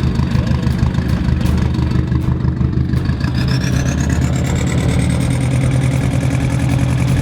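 Four-wheel-drive vehicle engine running steadily, with a thin high whine that climbs in pitch from about three seconds in.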